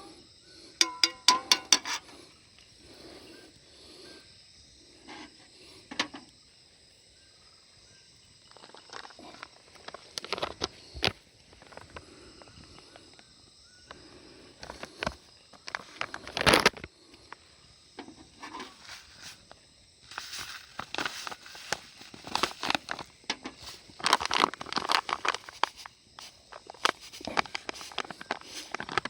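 Outdoor ambience with insects calling in a steady high drone, over scattered clicks, taps and rustles of handling and movement. One sharp knock about two-thirds through is the loudest sound.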